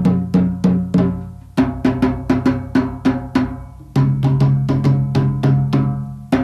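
Background music: an African drum performance, pitched drum strikes at an even beat of about three a second, each ringing briefly.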